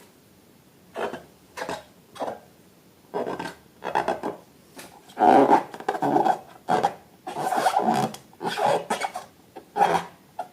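A run of irregular rubbing and scraping strokes that start about a second in and come louder and closer together from the middle on.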